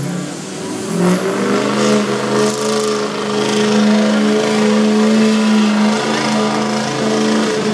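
Turbocharged Ford F-250 pickup engine running hard under full load while pulling the sled, its pitch holding fairly steady, with a high turbo whistle above it. It gets louder about a second in.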